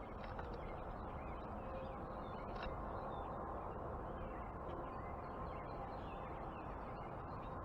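Wild birds around a backyard feeder giving scattered short, faint chirps and calls over a steady outdoor background rumble.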